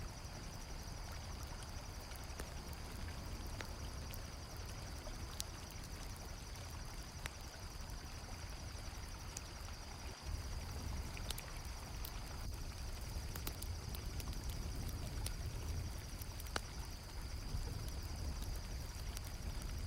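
Night ambience mix: crickets chirping in a steady high trill over the low rush of flowing river water, with scattered sharp pops and crackles from a campfire. The water grows a little louder about halfway through.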